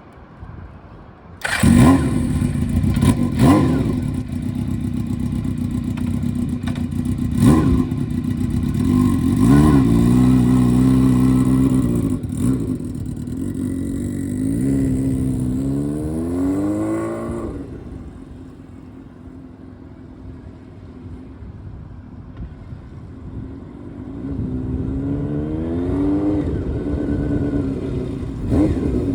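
Honda CBX750F air-cooled inline-four through a 4-into-1 collector exhaust, coming in suddenly about a second and a half in, then running loudly and rising in pitch several times as it is revved or accelerated. It falls quieter for a few seconds past the middle before rising again near the end.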